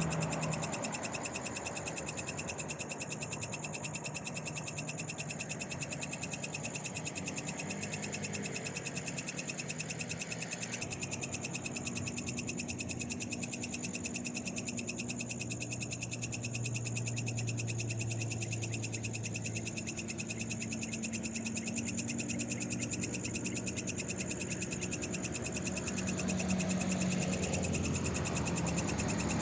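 Night chorus of frogs calling, over a steady, rapid high trill of insects.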